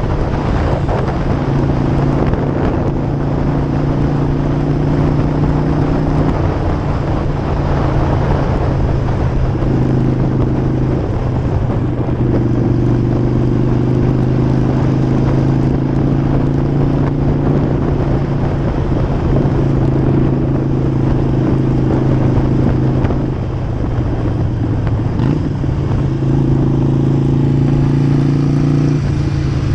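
Harley-Davidson V-twin motorcycle engine running at a steady cruising speed, with wind rushing over the action camera's microphone. The engine note eases briefly about three-quarters of the way through, then settles again.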